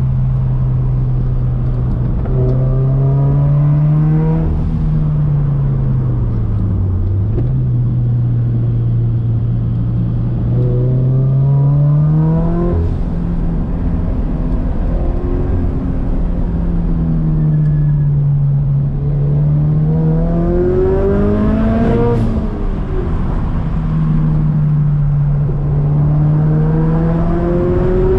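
Turbocharged Scion FR-S's flat-four engine pulling hard through a run of corners, climbing in pitch and dropping back again about four times as the driver accelerates and lifts or shifts. A single sharp snap sounds about three quarters of the way through.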